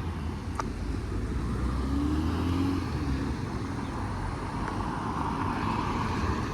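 Outdoor ambience with the steady low rumble of a running vehicle, a single click under a second in, and a faint short tone about two seconds in.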